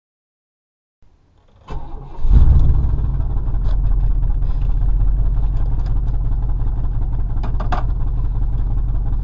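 Pickup truck engine starting: it builds up and catches about two seconds in, then runs steadily with a low rumble, with a few light clicks over it.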